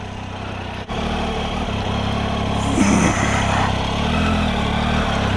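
Triumph Tiger 800's three-cylinder engine running steadily at low revs. There is a short break about a second in, then it carries on a little louder, with a brief swell near the middle.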